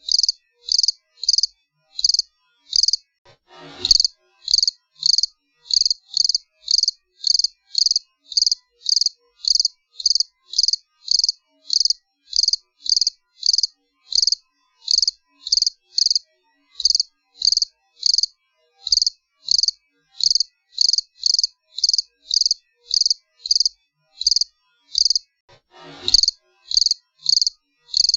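A cricket chirping in a steady, even rhythm, about two high-pitched chirps a second. A brief faint downward whoosh sounds twice behind it, about four seconds in and near the end.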